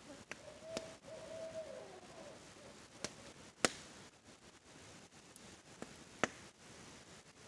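Campfire wood crackling, with scattered sharp pops, the loudest about three and a half and six seconds in, over a steady hiss of rain. In the first two seconds an owl hoots one drawn-out note that falls away at the end.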